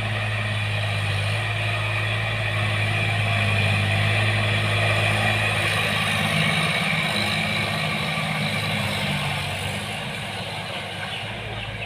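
Sonalika DI 50 RX tractor's diesel engine running with a steady drone, growing a little louder around the middle and fading toward the end.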